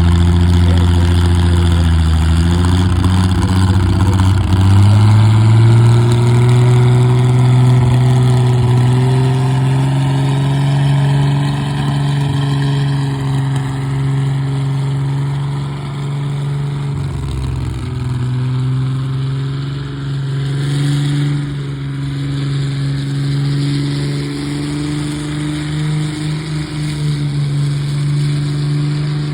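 Minneapolis-Moline pulling tractor's engine running hard. Its note climbs about four seconds in and then holds steady, with a brief dip around the middle, while the sound gradually fades.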